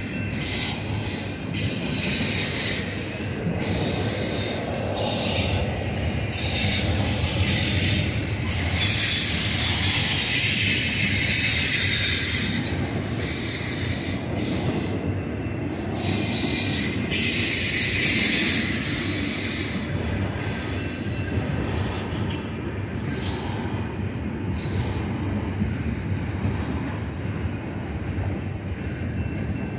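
Loaded double-stack container well cars rolling past: a steady rumble of steel wheels on rail with a high hiss. A thin, high-pitched wheel squeal holds for several seconds about a third of the way through, and the hiss fades in the last third.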